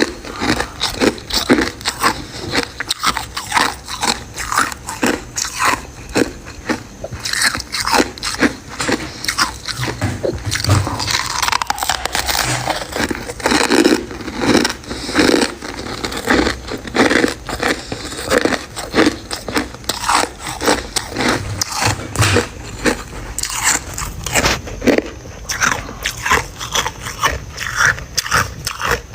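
Close-up biting and chewing of crunchy pieces of freezer frost, a long run of crisp, irregular crunches packed a few to the second.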